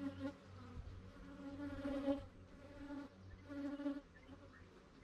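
Agitated honey bees from an opened hive buzzing close by, with about four loud buzzes swelling and fading one after another over a steady low hum from the rest of the swarm.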